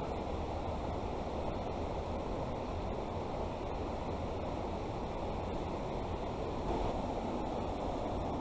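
Steady rushing of flowing creek water, an even noise with no distinct events.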